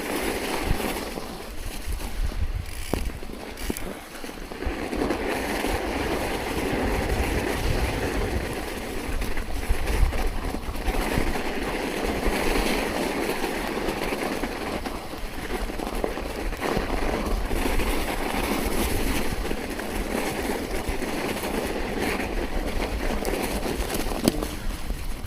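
Wind buffeting the microphone over a steady rushing noise of riding through snow, with no clear engine note.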